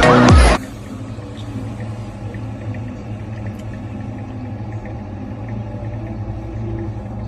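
Music cuts off about half a second in, leaving a steady low hum with a few faint light ticks.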